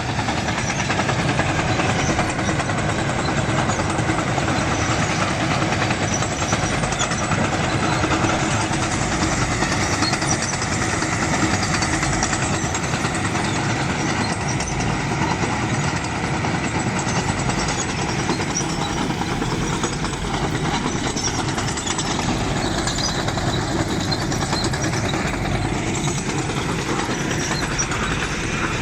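Tesmec 1475 trencher running steadily under load as it cuts a trench through the ground.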